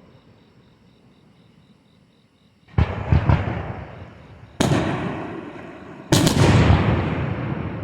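Aerial fireworks shells bursting: after a quiet opening, a sharp boom about three seconds in, another a couple of seconds later, and a doubled burst near the end, each one rumbling away slowly.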